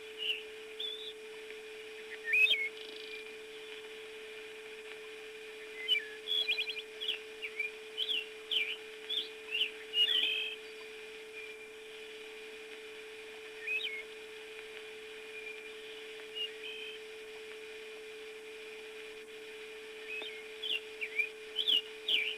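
Birds chirping in short, scattered calls, thicker in two spells and sparse in between, over a steady hum.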